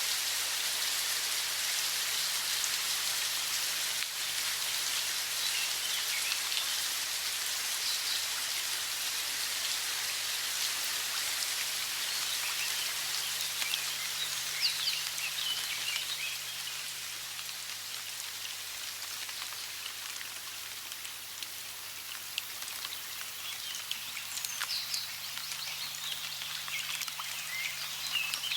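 Steady hiss of running water, with short high bird chirps a few times: about a third of the way in, around the middle, and several near the end.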